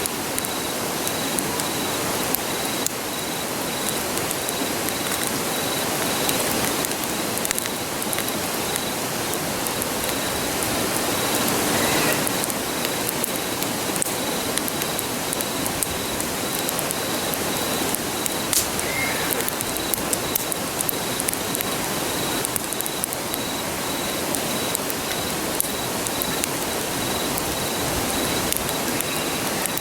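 Steady rushing of a river under the crackle of a campfire, with scattered small pops. A faint, evenly pulsing high insect chirp runs underneath.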